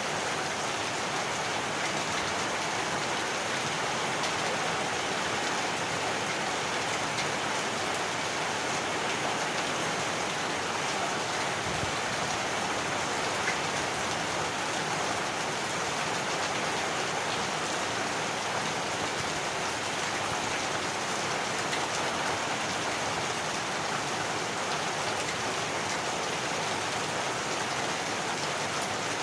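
Heavy rain falling steadily, an even, dense hiss of drops on surfaces with no thunder.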